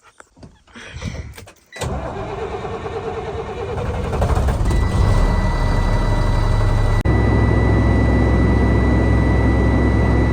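A vehicle engine comes in suddenly about two seconds in, builds, and then runs steadily at idle, with a thin steady high beep tone joining about five seconds in.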